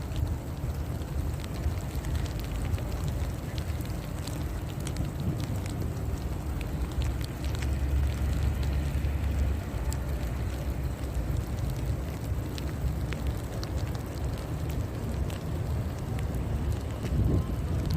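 Storm wind buffeting the microphone, a steady low rumble with scattered light crackles throughout, swelling louder near the end.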